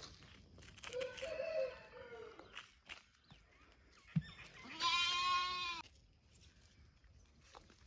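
A young goat bleating: a faint call about a second in, then a clear, louder bleat of about a second midway, with a sharp click just before it.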